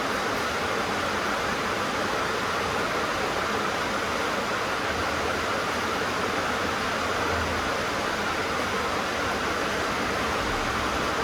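Heavy rain drumming on a tin (sheet-metal) roof, a steady, even hiss with no letup.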